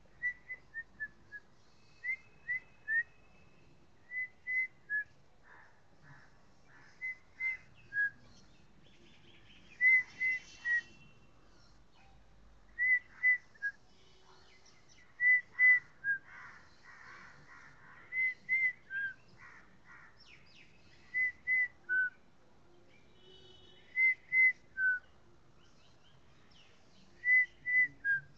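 A bird repeating a short, clear whistled phrase every two to three seconds: usually two level notes and then a lower, falling one.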